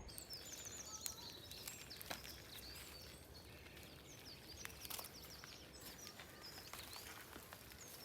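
Faint birdsong: small birds singing in quick runs of short high chirps.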